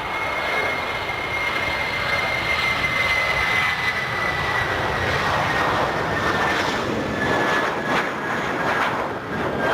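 Jet airliner's engines passing: a steady rush with a high fan whine that slowly drops in pitch.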